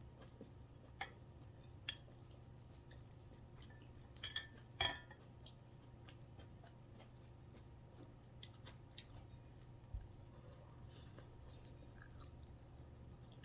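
Chewing and mouth sounds of a person eating, close to the microphone. A few sharp clicks or taps are scattered through it, the loudest a quick cluster about four to five seconds in, over a low steady hum.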